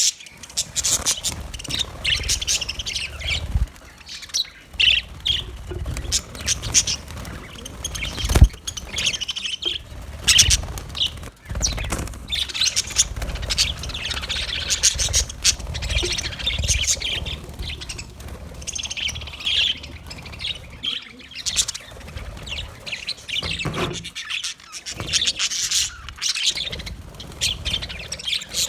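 A flock of budgerigars chirping and warbling continuously, with a low rumble underneath and a few sharp knocks, the loudest about eight and a half seconds in.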